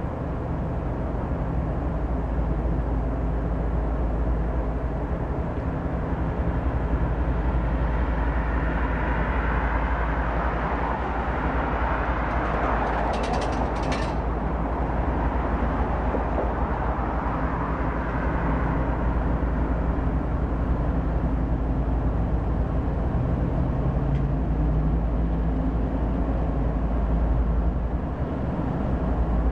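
Diesel-hauled freight train passing: a steady deep engine rumble, with a rolling hiss that swells toward the middle and then eases. Two brief high-pitched squeaks come about halfway through.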